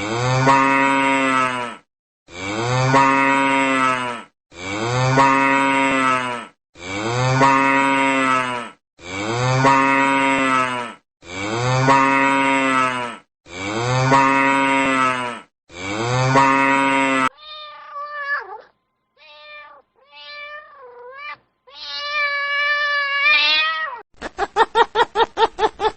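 A cow mooing, the same low, two-second moo repeated eight times in a row. Then a domestic cat gives several short meows that bend in pitch and one longer meow, followed near the end by a rapid, pulsing animal call.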